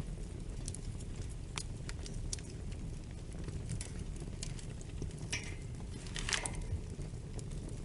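Wood fire in a fireplace crackling, with a steady low rumble of flames and scattered sharp pops. Two longer, hissing crackles come about five and six seconds in.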